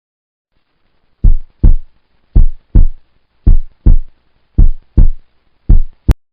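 Heartbeat-style sound effect: pairs of short, loud, deep thumps in a lub-dub rhythm, about one pair a second. The fifth pair is cut short by a sharp click.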